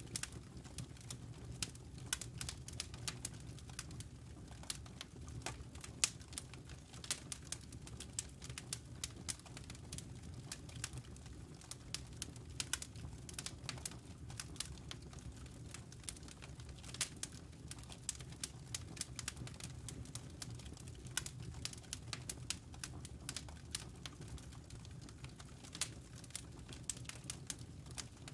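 Campfire crackling: burning wood snaps and pops in quick, irregular clicks over a steady low rumble.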